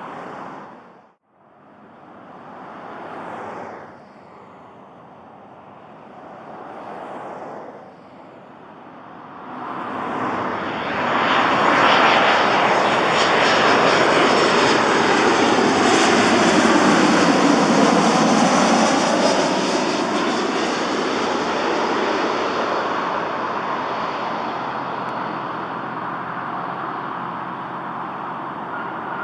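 Southwest Boeing 737 jet arriving and passing close by. Its engine roar builds from about a third of the way in, is loudest in the middle with a sweeping, shifting tone as it goes past, then fades slowly.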